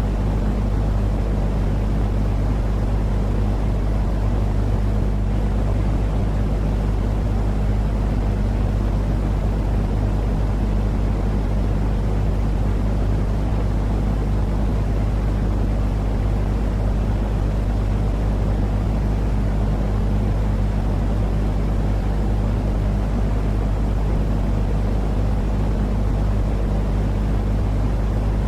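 Steady, unchanging baby-sleep "white noise" track: a deep, even rush of noise weighted toward the low end, with a steady low hum beneath it, like a drone inside an engine cabin.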